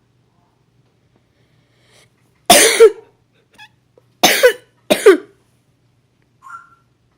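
Three loud, harsh cough-like sounds: one a couple of seconds in, then two close together a second and a half later, followed by a faint short squeak.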